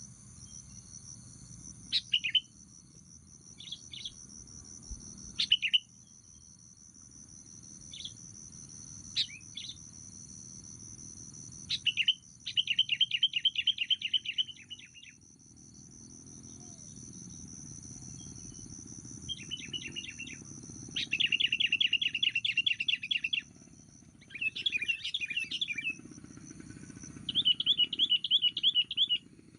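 Sooty-headed bulbuls calling: scattered short, sharp chirps and three or four rapid chattering runs of a few seconds each, the longest about halfway through. A steady high insect drone runs underneath.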